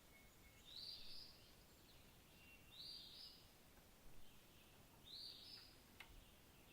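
A bird giving a short, high call about every two seconds, three times, over faint background hiss.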